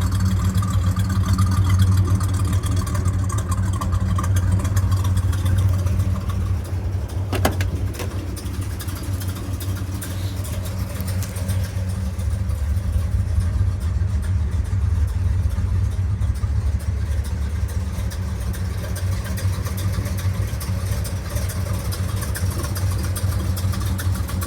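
1967 Buick GS 400's 400 cubic-inch V8 idling steadily, with a single sharp click about seven and a half seconds in.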